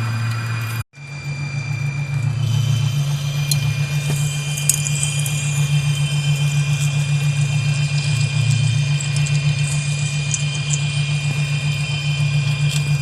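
Metal lathe running, with a parting tool cutting into a steel workpiece on power cross-feed. A steady deep machine hum is joined about two seconds in by a steady high whine and light crackling from the cut.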